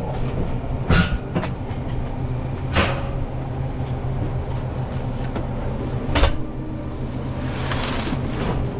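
A heavy load of water cases being wheeled along, with a steady low rumble from the rolling wheels and three sharp clanks: about a second in, near three seconds and about six seconds in. A brief hissing swell comes near the end.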